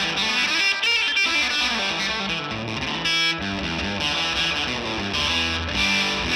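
Gretsch White Falcon electric guitar played through a Benson Delay pedal set for slapback, a short quick echo on each picked note, with a slight tape-style warble from the pedal's modulation.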